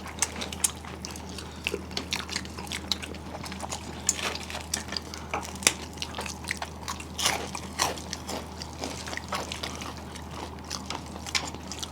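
Close-up eating sounds: irregular wet clicks and smacks of chewing, as someone chews drumstick stalks from a Bengali vegetable chorchori, over a steady low hum.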